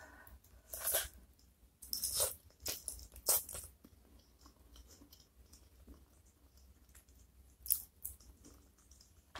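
Close-miked eating of soft-cooked chicken feet: wet chewing, smacking and sucking clicks in short clusters over the first few seconds, then quieter chewing with one more smack near the end.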